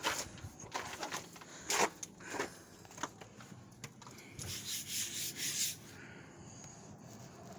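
Footsteps outdoors: a few separate crunching steps, then a longer rustling rub for about a second, a little past the middle.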